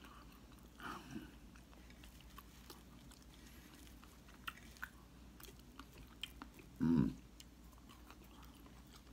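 A person chewing and biting into crispy cornmeal-battered fried perch, with small crunches and mouth clicks. Two short vocal sounds from the eater break in, a faint one about a second in and a louder one near seven seconds.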